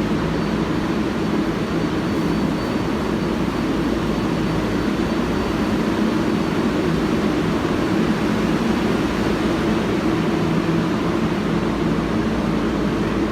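Steady hum and rumble of a subway train, with a few low steady tones.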